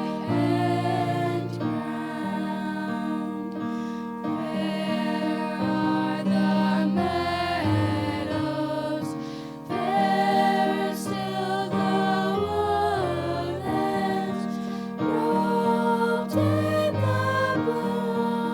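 A hymn sung by female voices over an instrumental accompaniment with held low notes.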